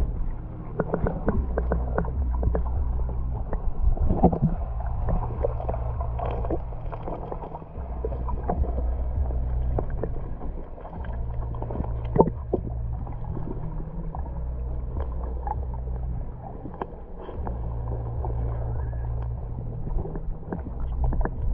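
Wind rumbling on the microphone in gusts a few seconds long, with scattered light clicks and lapping of lake water.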